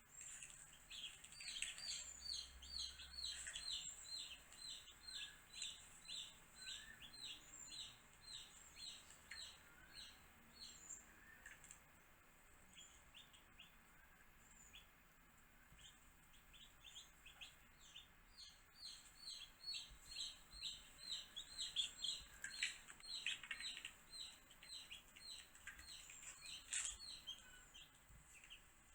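Baby chicks peeping: runs of short, high, falling calls a few per second, thinning out in the middle and picking up again in the second half.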